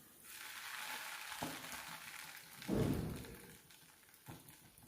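Bread sandwich frying in butter on a hot tawa, sizzling steadily, with a dull thump about three seconds in.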